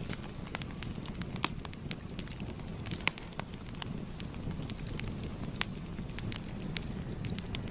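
A fire crackling: irregular sharp pops and snaps over a steady low rumble of burning, with a few louder snaps about a second and a half, three and five and a half seconds in.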